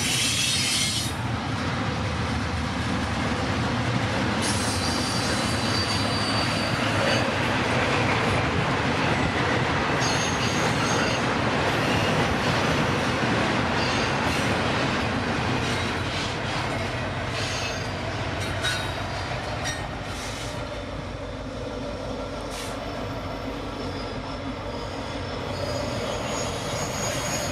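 CPKC freight train rolling past, a steady clatter of its cars' wheels on the rails, with faint high-pitched wheel squeals now and then.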